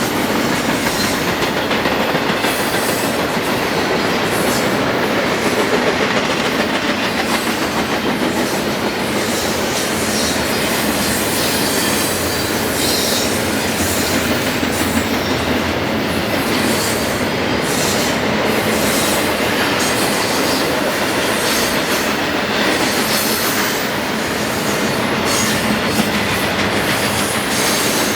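A train rolling past close by: a long, steady rush of railcars with wheels clattering over the rails.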